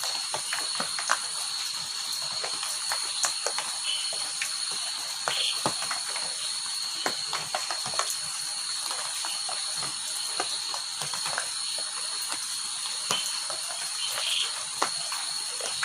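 Rain falling, with many separate drops striking close by in an irregular patter, over a steady high-pitched insect trill.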